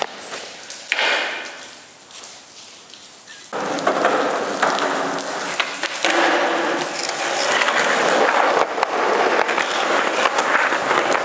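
Skateboard wheels rolling over pavement. There are a couple of sharp knocks from the board in the first second, then a quieter stretch, and about three and a half seconds in a loud, steady rolling rumble starts and carries on with small clicks.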